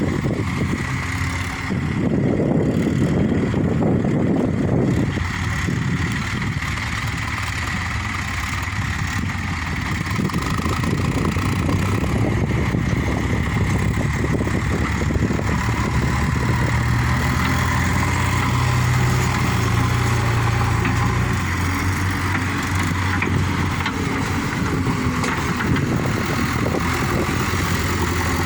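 Heavy diesel machinery engine running steadily under varying load. There is a louder, rougher stretch about two to five seconds in, and the hum strengthens between about sixteen and twenty-one seconds in.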